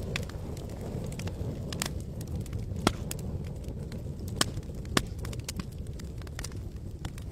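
Wood campfire crackling, with irregular sharp pops over a low steady rush; three louder snaps stand out, about three, four and a half, and five seconds in.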